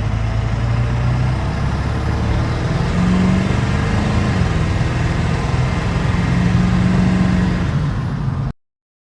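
Ford 7.3 Powerstroke V8 turbo diesel running without a muffler while the truck drives; its note steps up about three seconds in and holds there, then the sound cuts off abruptly near the end.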